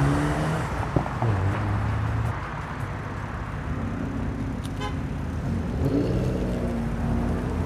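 Car engines running at low revs, their pitch shifting slightly.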